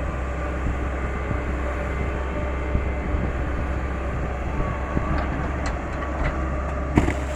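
Caterpillar 318 hydraulic excavator running steadily under work, its diesel engine and machinery making a dense rumble, with a sharp knock about seven seconds in.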